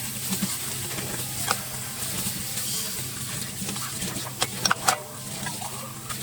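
Kitchen cleanup sounds: a steady hiss with a low hum beneath it, and dishware and utensils clinking, with a quick run of louder ringing clinks about four and a half seconds in.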